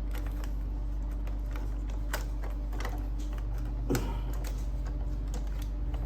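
Scattered light clicks and taps of plastic printer parts being handled and fitted during a print head replacement, with one louder knock about four seconds in. A steady low hum runs underneath.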